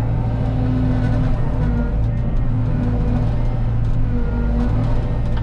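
Cat 313 excavator's diesel engine running steadily under work.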